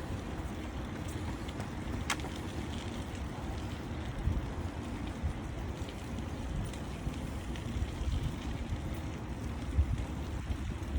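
Wind rushing over the microphone while cycling: a gusty low rumble, with one sharp click about two seconds in.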